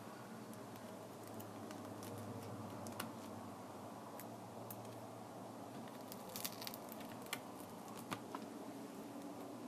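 Light clicks and ticks of small tools and parts being handled during a tablet repair, scattered and irregular with a quick cluster past the middle, over a steady low hum.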